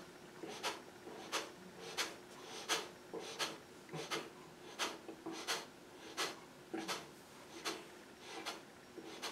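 Kapalbhati breathing: a steady run of short, sharp forceful exhalations through the nose, about one every 0.7 seconds, each a quick puff of air.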